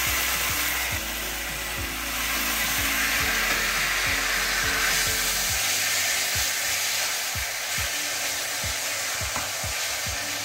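Raw chicken pieces sizzling as they start to fry in hot oil with shallots and garlic, stirred with a slotted spatula in the pan.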